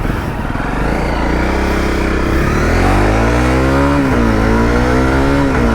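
Honda CRF250L's single-cylinder engine picking up from a low, pulsing run and revving up from about two seconds in, easing off briefly around four seconds, then climbing again and easing off near the end.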